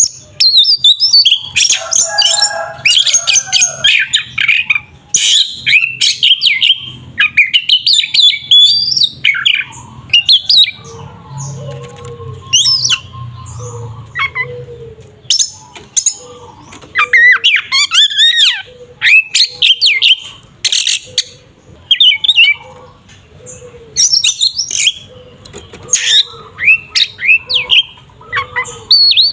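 Oriental magpie-robin (kacer) in aggressive, full-voiced song: a loud, rapid string of varied whistles, slurred glides and sharp chirps with only brief pauses.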